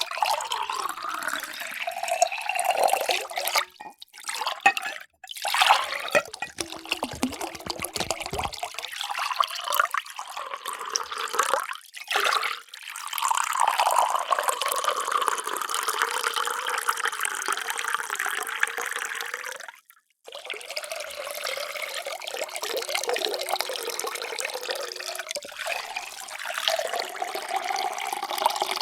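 Water poured in a stream into a container, in several separate pours with brief breaks between them. Near the end the note of the pour rises as the vessel fills.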